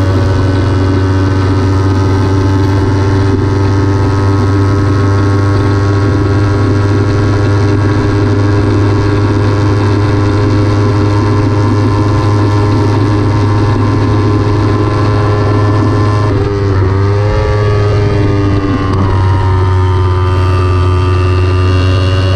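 Kawasaki Ninja 300's parallel-twin engine running hard at high revs with a steady, loud wind noise on the microphone. About sixteen seconds in, the revs fall in quick steps as it shifts down, then climb again.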